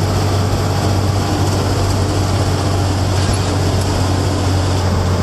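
Steady diesel engine drone and road noise inside the cab of an AM General 5-ton 6x6 army truck cruising on the road, with a strong low hum throughout.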